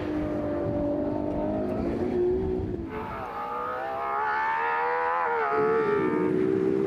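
Ferrari 812 Competizione's naturally aspirated 6.5-litre V12 running, then revved about halfway through: the note climbs for a couple of seconds and then drops back to a steady, lower note.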